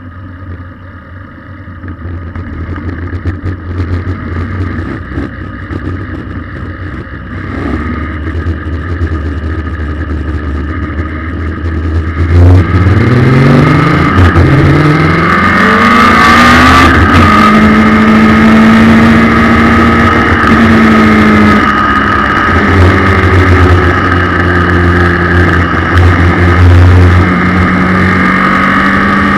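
Race car's Suzuki Hayabusa motorcycle engine, an inline-four, running at low revs for about the first twelve seconds. It then revs up hard in several quick rising runs through the gears and pulls on loudly at high, steady revs.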